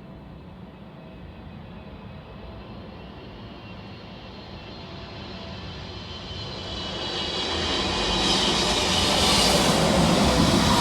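Jet airliner passing low overhead on the airport approach or climb-out, its engine noise swelling from a distant rumble to a loud rushing roar with a high whine in the last few seconds.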